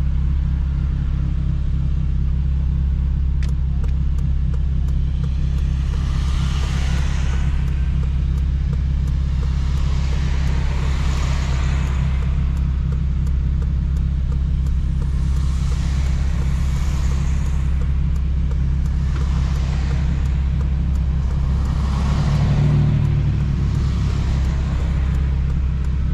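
2007 Honda Civic Si's four-cylinder engine droning steadily at an even speed, with road noise. A hiss swells and fades about five times, like traffic going past.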